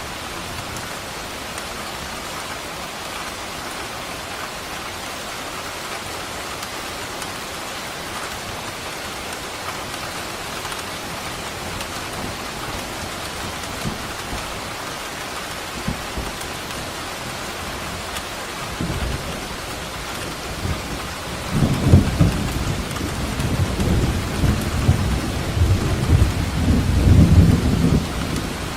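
Steady rain falling, with rolling thunder that starts to rumble about two-thirds of the way through, swells to its loudest over several seconds and eases off near the end.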